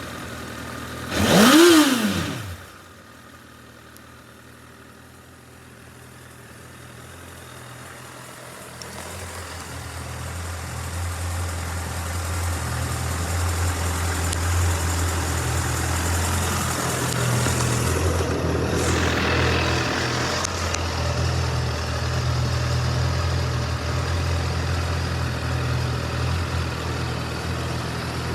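Honda CBR1000RR inline-four blipped once about a second and a half in, its pitch climbing and falling back within a second. After a short lull, a steady low engine drone builds over several seconds and keeps on.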